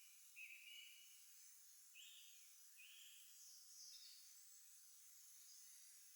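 Faint songbirds calling: four short calls in the first three seconds, then one higher call about a second later, over a thin hiss.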